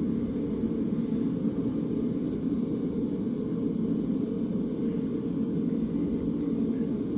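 A forge running: a steady, low, even rumble.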